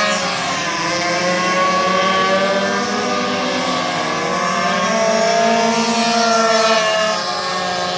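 Several racing minibike engines revving high and overlapping, their pitch rising and falling as the riders open and close the throttle around the circuit. The sound gets a little quieter near the end.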